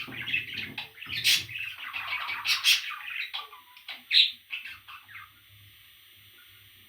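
Parrot chicks calling, a dense run of overlapping calls that thins out to a few scattered ones and stops about five seconds in.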